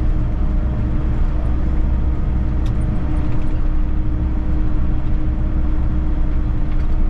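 Volvo EC60E mini excavator's diesel engine running steadily, with a low hum and a single held tone.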